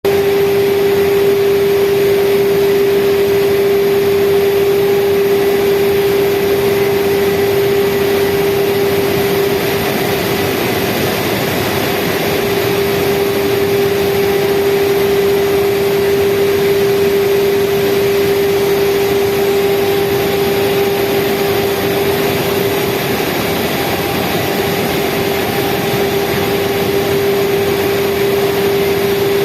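Speedboat's outboard engine running steadily at speed, a constant high drone over a dense rush of water and wind noise.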